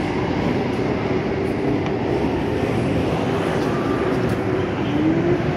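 Car engine and exhaust running steadily, with the engine note rising briefly near the end.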